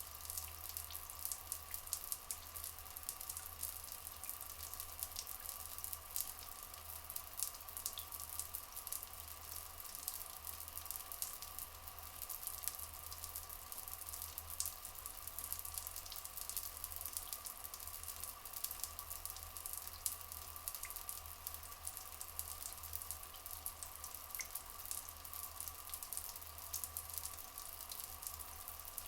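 Water flowing and trickling steadily, full of small splashing drips and crackle.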